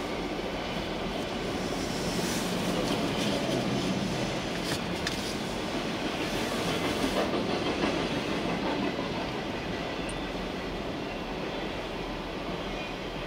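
Freight cars of a CSX manifest train rolling past: a steady rumble of steel wheels on rail, with a few sharp clicks over rail joints.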